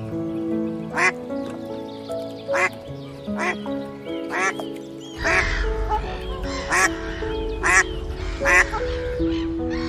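Calm background music of held notes, overlaid with a bird's short, loud calls repeated roughly once a second. A low rumbling noise joins about halfway through.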